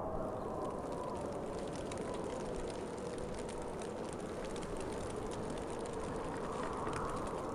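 Winter wind blowing steadily, a low rushing with a faint hollow tone that swells a little near the end, with light scattered ticking over it.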